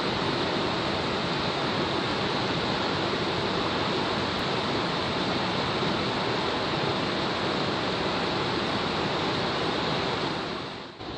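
Steady rush of water from a fast mountain stream or waterfall. It drops in level abruptly about ten and a half seconds in.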